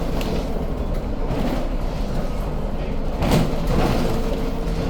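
City bus running along the road, heard from inside the cabin: steady engine and road rumble, with a loud knock or rattle about three seconds in.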